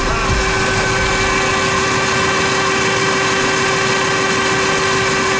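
Denzel Samurai electric motorcycle running at a steady speed on a laboratory test stand: an even motor whine with several steady tones over a hum of running noise, holding constant with no rise or fall.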